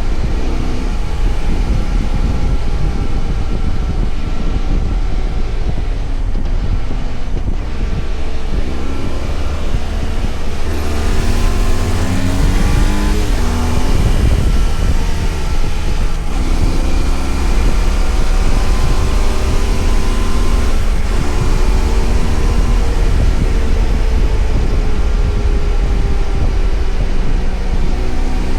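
BMW F800GS parallel-twin engine running on the road, its pitch climbing and falling several times, under a steady heavy rumble of wind.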